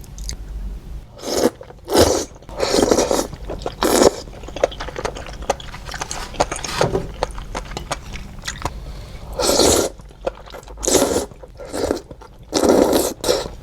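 Close-miked eating of suanlafen, hot and sour glass noodles: about seven loud noisy mouthfuls, spaced irregularly, with small wet chewing clicks between them.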